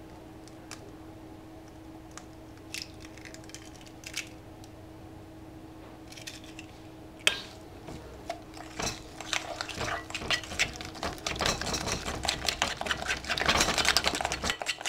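An egg being beaten by hand into creamed margarine and brown sugar in a mixing bowl. A few scattered clicks come first; then, about eight seconds in, a fast, busy run of utensil clicks and scrapes against the bowl starts and grows louder toward the end.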